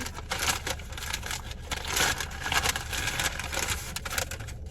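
Close crinkling and rustling handling noise over a low steady hum, easing off near the end.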